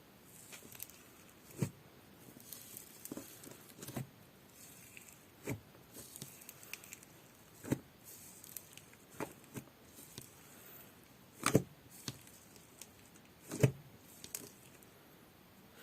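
Slime being handled and squished: irregular sticky pops and clicks as it is pressed and pulled, with two louder pops in the second half.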